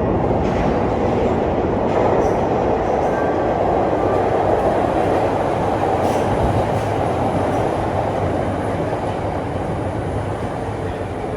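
Jet airliner engines roaring steadily, easing off slowly over the last few seconds.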